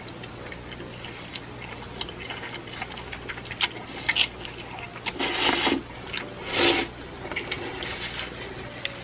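Small sticky clicks and taps of a thick, cheesy food being mixed or handled, with two louder rushing bursts about five and six and a half seconds in.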